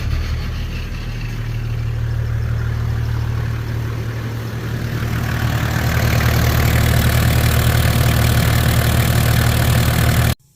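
Toyota 1HZ 4.2-litre inline-six diesel engine idling steadily, the engine as it runs before a diesel purge cleaning of its injection system. It grows a little louder about halfway through and cuts off suddenly near the end.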